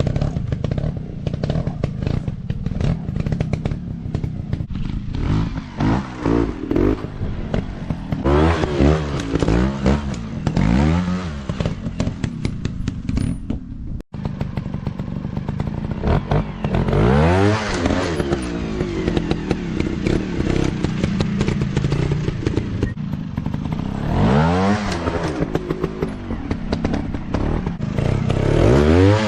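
Dirt bike engines revving, the pitch climbing and falling again and again as the throttle is worked, with clattering over the engine noise.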